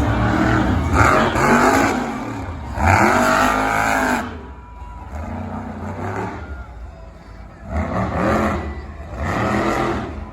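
Monster truck engine revving in repeated bursts, rising and falling in pitch. The loudest rev comes about three seconds in, then it eases off for a few seconds before revving again near the end.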